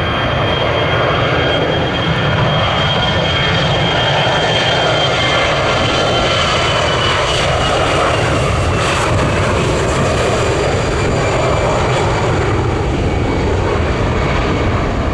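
Jet airliner departing at takeoff power: a loud, steady engine rumble with a high whine that slowly drops in pitch as it passes.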